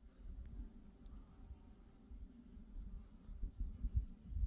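A small bird giving a short, high chirp over and over, about twice a second, over an uneven low rumble.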